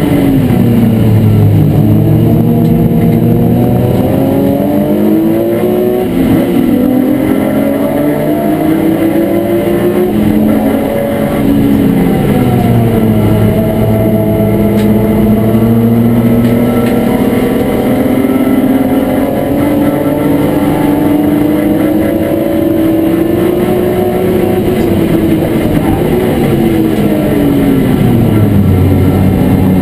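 BMW E36 M3's straight-six engine, heard loud from inside the stripped race car's cabin, running hard under racing load. Its note climbs and falls several times as the car accelerates, then lifts or changes gear.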